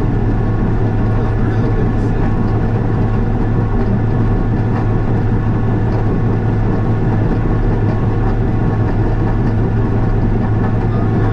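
Diesel engine of a piece of earthmoving equipment running steadily at a constant speed, a loud even hum with no change in pitch.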